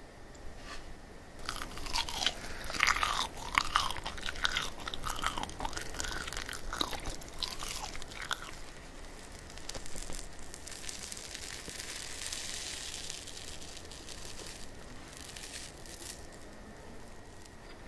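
Close-miked eating of purple layered crepe cake: chewing with many small clicks and crackles of the mouth, densest over the first half. After about ten seconds it turns to a softer, hissing rustle.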